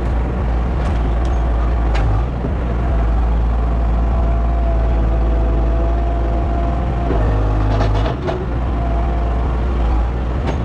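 A heavy engine running steadily with a deep rumble. A faint steady whine is held through the middle, and there are a few knocks and rattles, a cluster of them about eight seconds in.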